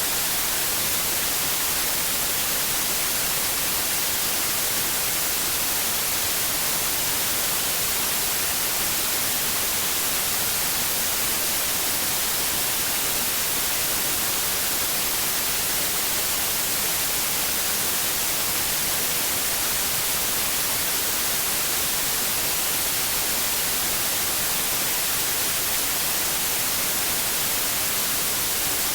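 Steady white noise: an even, unbroken hiss, strongest in the high frequencies, played as a sleep aid for babies.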